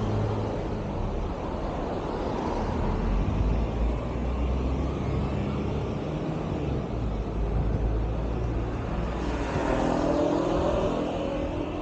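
Road traffic: vehicle engines running with a steady low rumble as vehicles pass close by. Near the end a whining tone rises over it.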